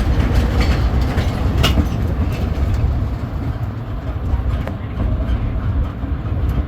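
A tourist road train running along the road, heard from aboard: a steady low rumble from its engine and tyres, with scattered rattles and clicks from the carriages.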